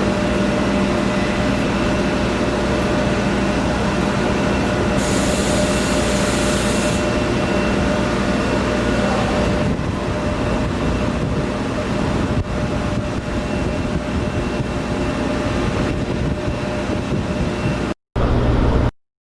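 Large power-plant generating machinery running with a steady drone and several fixed tones. A high hiss joins about five seconds in for two seconds, and the sound cuts off abruptly near the end.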